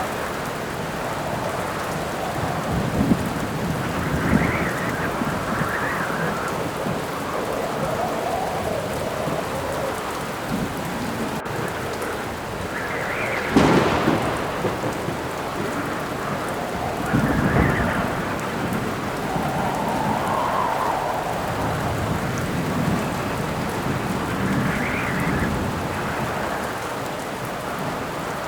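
Steady rain with wind howling in gusts that rise and fall, under rolling thunder, with one sharp thunderclap about halfway through.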